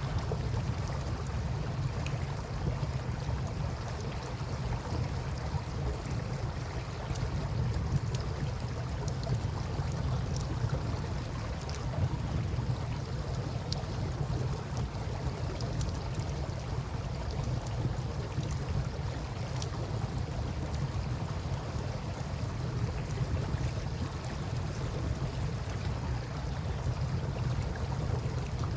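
Campfire crackling with scattered small pops, over a steady low rush of river water.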